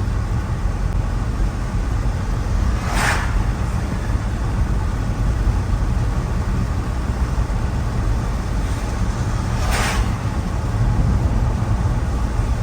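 Steady road and engine rumble of a car driving on a wet road in the rain, with two brief hissing swooshes about seven seconds apart.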